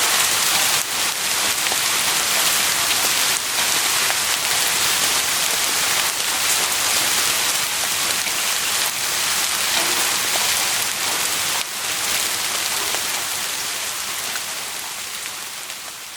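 Heavy rain falling steadily in a dense hiss, fading out near the end.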